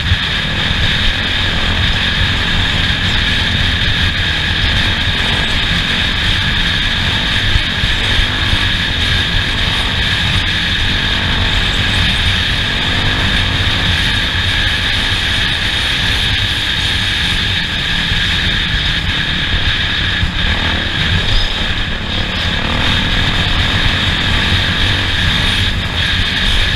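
Off-road race vehicle's engine running steadily at speed, with a dense low rumble of driving noise.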